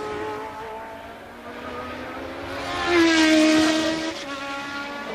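Engines of 1982 Formula One cars screaming at high revs during the race. One car swells to the loudest point about three seconds in, holds a steady high note for about a second, then fades.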